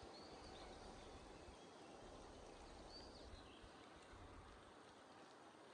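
Near silence: faint outdoor forest ambience with a steady hiss and a few faint, short, high bird chirps, plus an intermittent low rumble in the first half.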